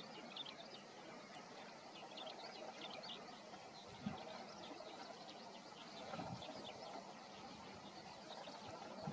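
Faint, busy chirping of birds over a steady outdoor background, with a couple of soft low thumps about four and six seconds in.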